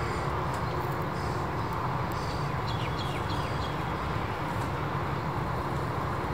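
Steady outdoor background noise with a low rumble, and a few faint bird chirps about three seconds in.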